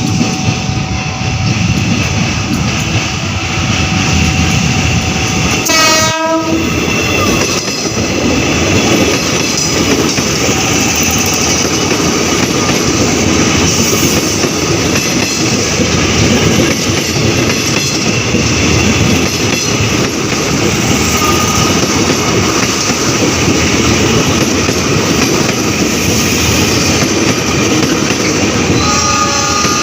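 A train running close by with a steady, loud rumble and wheel clatter. A short horn blast sounds about six seconds in, and another horn-like tone starts near the end.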